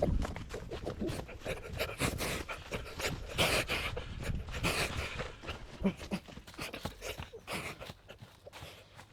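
Heavy panting breaths, mixed with many short rustles and knocks.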